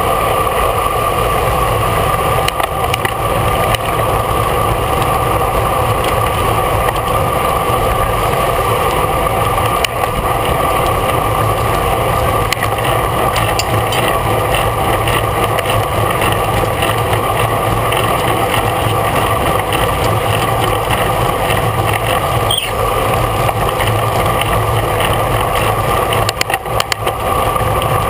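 Steady wind and road noise from a camera mounted on a racing bicycle moving at speed in a bunch, with constant droning tones running through it.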